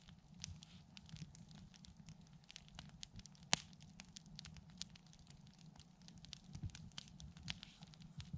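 Wood campfire crackling: a steady scatter of small sharp snaps, with one louder snap about three and a half seconds in.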